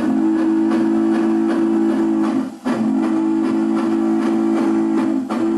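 Model steam locomotive's sound-system chime whistle blowing long blasts for a grade crossing: two long, steady chord blasts of about two and a half seconds each, a third starting near the end, over faint regular chuffing.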